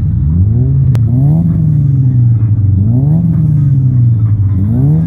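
Modified car engine being revved over and over, the revs climbing, holding briefly and dropping back about three times, with a sharp click about a second in.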